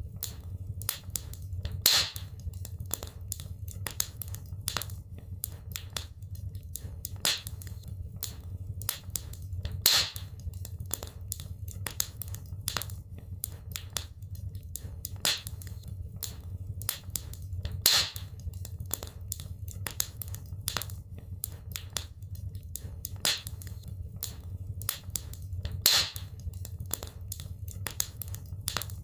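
Wood fire crackling in a fireplace: a dense run of small snaps and pops over a steady low rumble, with a louder pop about every eight seconds.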